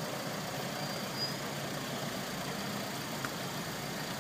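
Steady hum of idling car engines in slow, stopped traffic, heard from inside a car.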